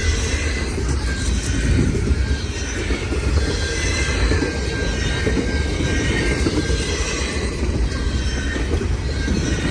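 Freight cars of a long CN freight train rolling past: a steady rumble of steel wheels on the rails, with a thin high wheel squeal that comes and goes.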